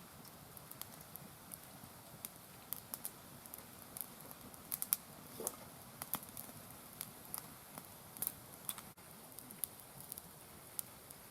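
Wood fire of mixed hardwood crackling, with irregular sharp pops and ticks over a low hiss.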